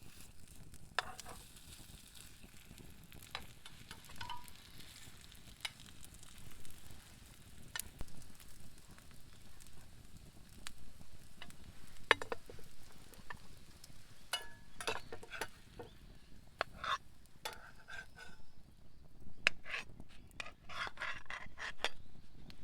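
Sizzling and crackling at a campfire: a soft hiss with scattered sharp pops and clicks, which come thicker in the last third.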